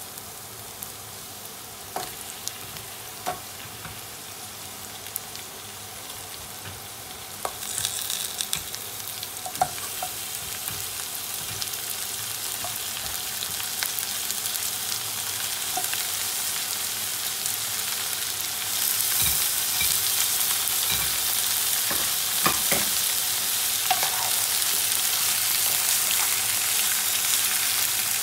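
Chopped onions, garlic and chilli sizzling in oil in a non-stick frying pan, with a wooden spatula clicking against the pan now and then. About seven seconds in, raw lamb pieces go into the hot pan and the sizzling gets louder, louder again later on.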